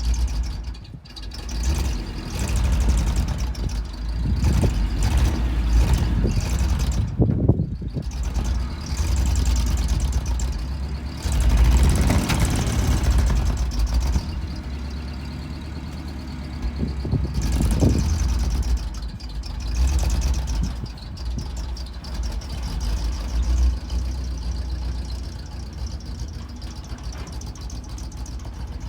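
1971 International truck's engine running, its sound swelling and easing off several times, with brief drops about a second in and around seven seconds in.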